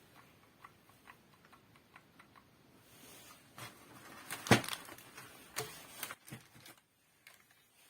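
Scattered light clicks and knocks of hard objects being handled, with one sharper knock about halfway through and a few more just after.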